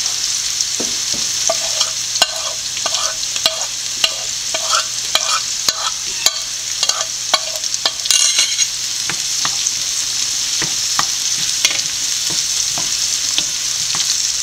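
Onions, green chillies and capsicum sizzling in oil in a frying pan, with a steady high hiss. A wooden spatula scrapes and taps against the pan as it stirs, in short strokes about twice a second, with a quick flurry of taps about eight seconds in.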